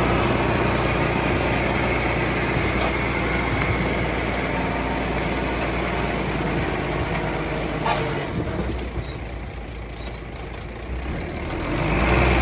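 Heavy diesel engine of earthmoving equipment running steadily. It eases off about eight seconds in, with a single click, and builds up again near the end.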